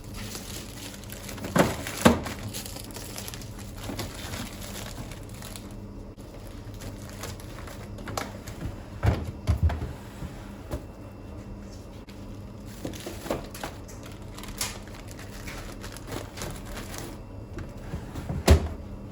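Kitchen handling sounds: scattered knocks and clatters with some crinkling, the sharpest knocks twice near the start, a cluster in the middle and one near the end.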